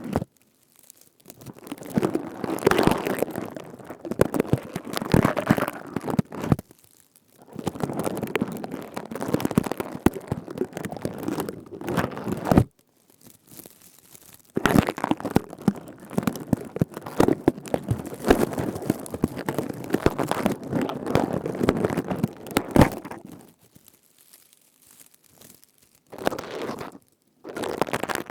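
Crown woven from grass leaves being rubbed and squeezed: a rustle full of small crackles, in three long spells of several seconds each and one short one, with brief pauses between.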